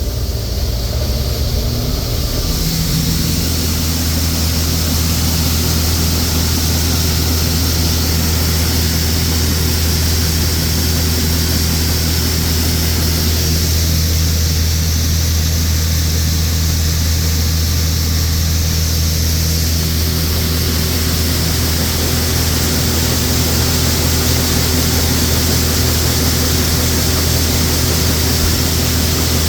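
John Deere 6620 Turbo combine's turbocharged six-cylinder diesel engine picking up speed about three seconds in, then running at a steady part throttle, a loud, even drone while the combine unloads grain.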